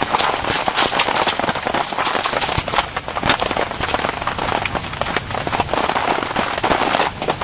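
Steady rain with many sharp drops striking a surface close by, a dense crackling patter. A thin steady high tone sits above it, dropping out about halfway through and returning near the end.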